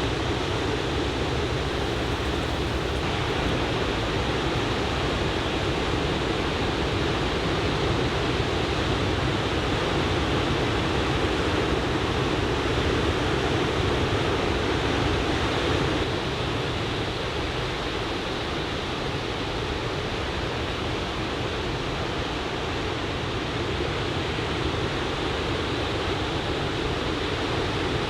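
Ocean surf breaking in a steady, continuous wash of noise, easing slightly in level about halfway through.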